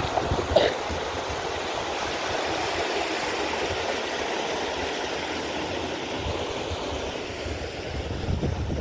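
Water rushing steadily at a canal lock. A brief sharp sound stands out about half a second in.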